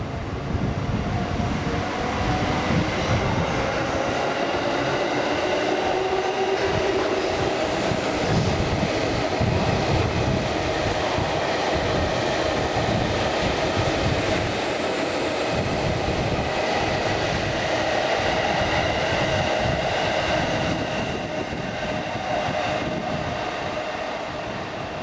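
JR East 251 Series electric train passing through a station platform, wheels clattering rapidly over the rails. A humming tone rises in pitch over the first several seconds and then holds steady; the noise fades near the end as the train pulls away.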